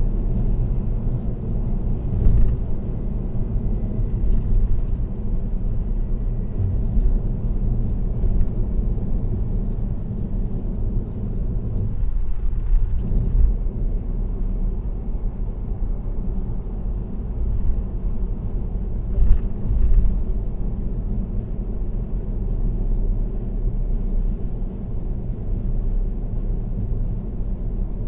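Steady low rumble of tyre and road noise from a car cruising on an expressway, with a couple of brief louder thumps about two seconds in and again around nineteen to twenty seconds.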